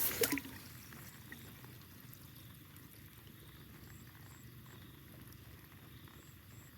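Faint, steady flow of floodwater in a roadside ditch, a low even rush with no distinct splashes.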